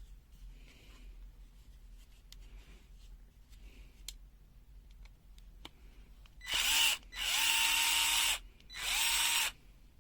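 Small electric screwdriver running in three short bursts; each run spins up and settles to a steady whine as it backs out the screws of the multimeter's plastic rear case. Faint handling clicks come before it.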